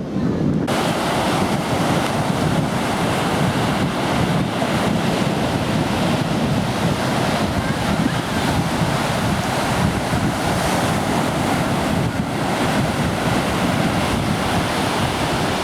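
Wind buffeting the microphone over the steady wash of ocean surf; the hiss comes in suddenly under a second in.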